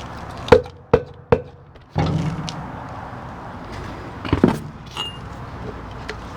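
Three sharp metal knocks in quick succession, each ringing briefly on one tone, as metal parts are struck during a wheelbarrow wheel repair. This is followed by rougher handling noise and another knock a few seconds later.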